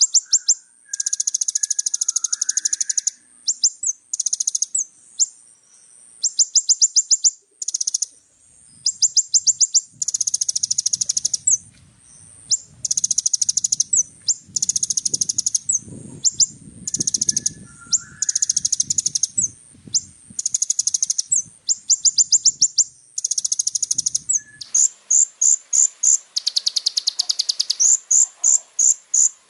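Kolibri ninja (a sunbird) singing: very high, rapid trills in bursts of about a second, repeated with short gaps, turning near the end into a fast run of separate sharp chips.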